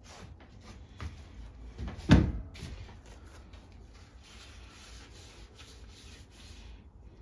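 Small carburetor parts and tools handled on a work surface: a few light knocks, a sharp solid knock about two seconds in, then a couple of seconds of rubbing or scrubbing noise as the parts are cleaned.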